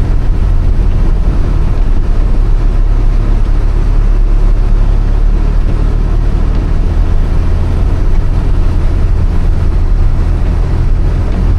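Inside the cabin of a 1993 Toyota Corolla 2.0 diesel driving slowly on a muddy dirt road: a steady, low engine drone with road noise.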